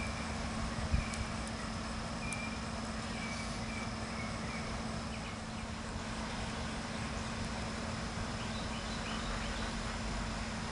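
Steady outdoor hiss with faint, short chirps from a small bird or insect, repeated a few times in the first half and again as a brief wavering call near the end.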